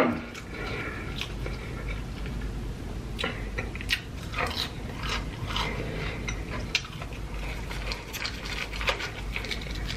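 Close-miked eating: chewing fried chicken rings with ranch, heard as scattered wet mouth clicks and short crunches.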